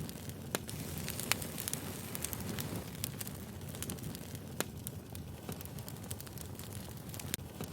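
Wood fire crackling: irregular sharp pops and snaps over a steady low noise of burning.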